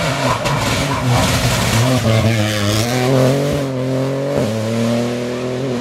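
Rally car engine at high revs under hard acceleration, its pitch climbing and dropping through gear changes with a brief break about four and a half seconds in.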